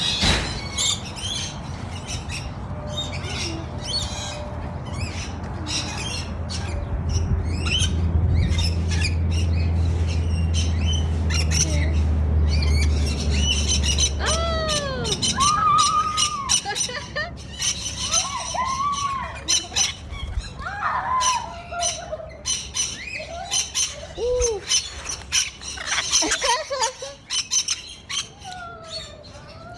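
Parrots squawking and chirping in many short calls, with a low steady hum under the first half. From about halfway on, the calls turn into rising-and-falling whistles.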